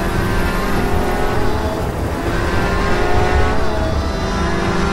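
High-performance car engine accelerating hard, its pitch climbing steadily and dropping back at two gear changes, about two seconds in and again past three and a half seconds.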